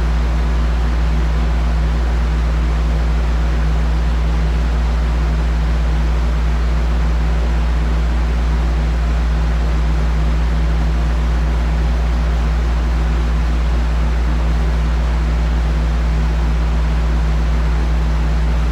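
A steady mechanical drone, like a fan running: a strong low hum with an even rushing noise over it, unchanging throughout.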